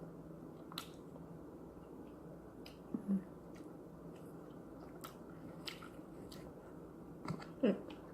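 Close-up wet chewing and biting of juicy fresh pineapple, with many small smacking clicks. There are two short hums from a voice, about three seconds in and near the end.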